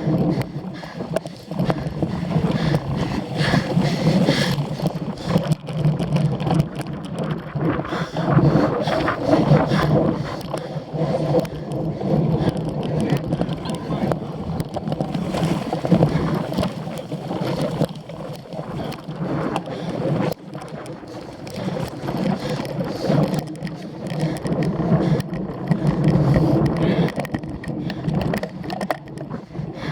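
Cyclocross bike being raced over the course, heard from a camera on the bike or rider: tyre and bike rumble with wind buffeting the microphone, rising and falling unevenly.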